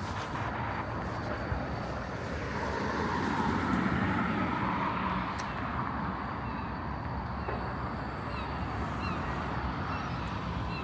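City street ambience with road traffic; a vehicle passes, swelling louder about three seconds in and fading again.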